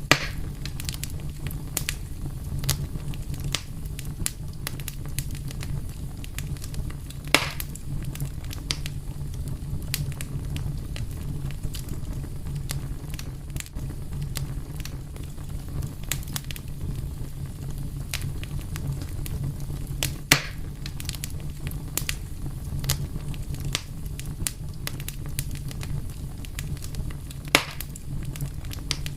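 Wood fire burning with a steady low rumble and frequent small crackles, with a few louder sharp pops of burning wood, about 7, 20 and 27 seconds in.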